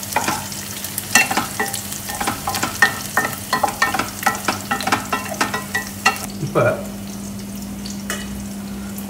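Chopped shallots and mustard seeds sizzling in hot oil in an aluminium kadai, being fried golden, while a wooden spatula stirs and scrapes the pan in quick clicking strokes. The stirring stops about six seconds in, leaving the frying sizzle on its own.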